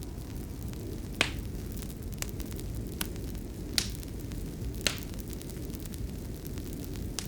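Wood fire crackling in a fireplace: a steady low rumble of burning with sharp pops about once a second, the loudest about a second in.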